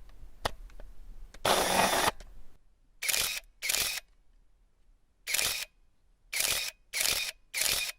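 Digital camera shutter firing in separate short bursts: a longer one about a second and a half in, then two shots about half a second apart, a single shot, and three shots in quick succession near the end.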